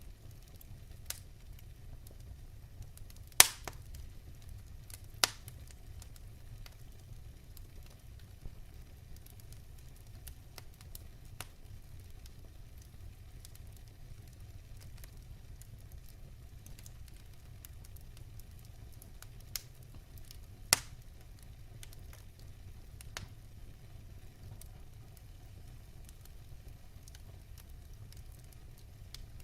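Wood fire burning in a fireplace, a low steady rumble with scattered sharp crackles and pops; the loudest pops come about three seconds in and again past the twenty-second mark.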